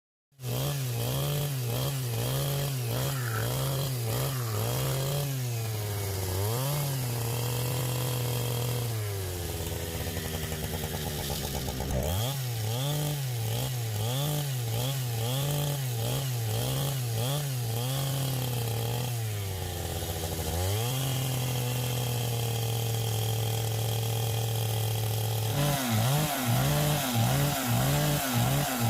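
Chainsaw running, its engine note rising and falling as the throttle is worked and dropping back low twice, about ten and twenty seconds in. Near the end the sound turns rougher and pulsing.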